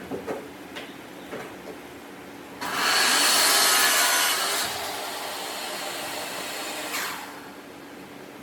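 A few light knocks, then a power tool starts abruptly and runs for about four and a half seconds. It is loudest for the first two seconds, then runs on more quietly before stopping.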